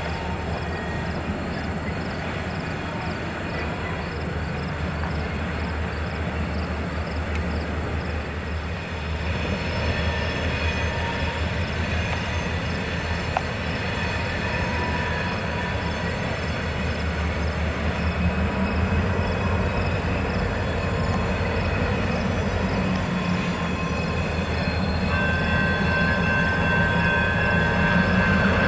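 A train rolling past on the track: a continuous rumble and rattle of rail cars that gets a little louder toward the end, where a thin steady high tone joins in.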